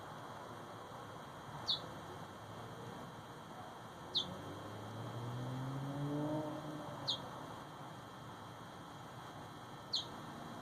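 A bird gives a single short, high chirp that falls in pitch, four times, every two to three seconds. A low drone swells and fades in the middle.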